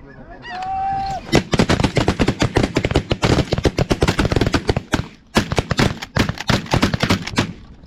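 A large flock of snow geese calling, a dense, continuous clamour of short honks. It starts about a second and a half in and dips briefly in the middle.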